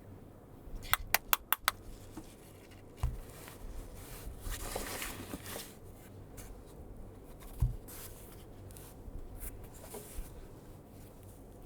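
A Sigma 17-40mm f/1.8 Art lens being handled. About a second in there are five sharp clicks in quick succession. Later come rubbing and scraping noises and two dull knocks.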